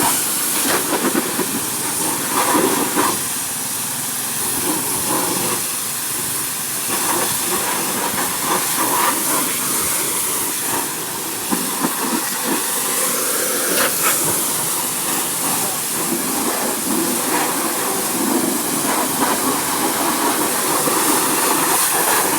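Steady hissing spray running throughout, with scattered knocks and clatter.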